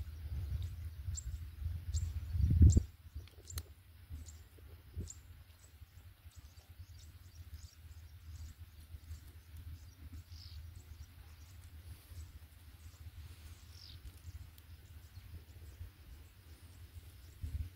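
Small birds chirping in short, repeated high calls over a quiet outdoor background. A low rumble, like wind or handling on the microphone, runs for the first three seconds, loudest near its end, then stops.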